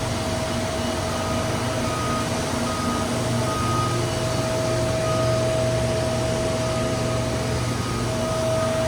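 Steady vehicle or machinery hum with a constant tone running through it, and short high beeps that repeat at uneven intervals.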